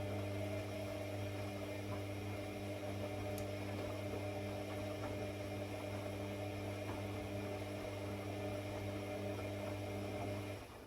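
A mains-powered electric device hums steadily with a deep drone, then switches off shortly before the end.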